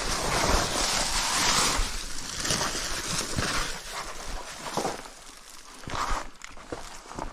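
Dry grass and brush rustling and crackling as someone pushes through cover on foot. It is loudest in the first two seconds and eases off, with a scattering of short crunches.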